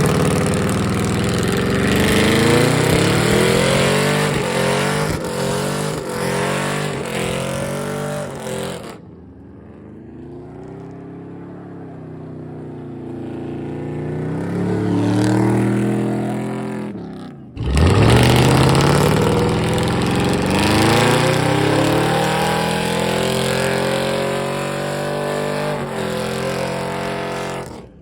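Pickup truck engines revving hard, the pitch climbing and dropping again and again. The sound breaks off abruptly about nine seconds in, continues quieter with the revs still rising and falling, then comes back loud about eighteen seconds in.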